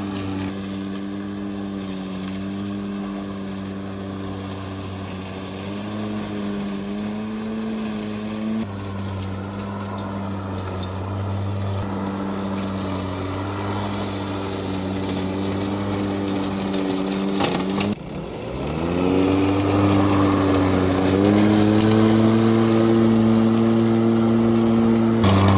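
Cordless 40V brushless electric push mower running with its blade spinning, a steady hum whose pitch sags and recovers as it cuts. About three-quarters of the way through the motor nearly stops, then spins back up and runs louder.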